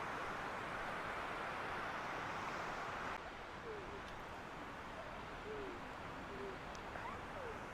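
Steady rush of a mountain waterfall and stream, dropping a little about three seconds in. Over it, several short, faint sliding calls come and go.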